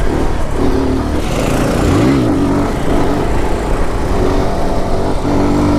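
A 125 cc single-cylinder mini bike engine running under way, revving up and back down once about two seconds in, with wind rushing over the microphone.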